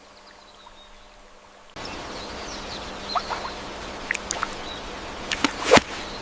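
Outdoor nature ambience: a steady hiss that comes in about two seconds in, with scattered short bird chirps, the loudest near the end.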